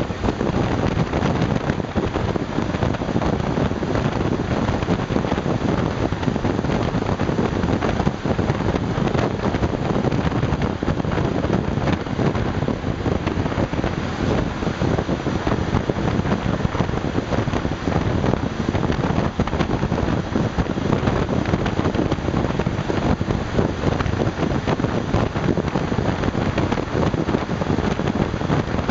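Steady wind noise rushing over the microphone of a moving Honda Super Cub 110, with the scooter's small air-cooled single-cylinder four-stroke engine running under load on an uphill climb.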